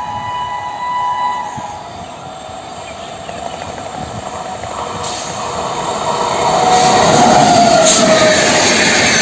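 An Indian Railways express train sounds its horn, a steady multi-tone blast that stops about a second and a half in. The train then draws near, and its rolling noise grows until it passes close by and loud over the last few seconds.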